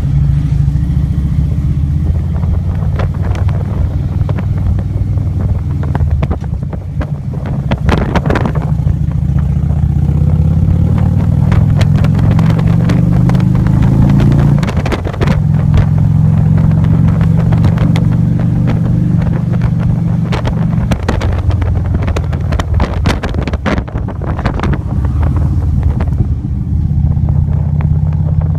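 A motor vehicle's engine running steadily with a low hum. Its pitch rises a little about halfway through, then drops away briefly.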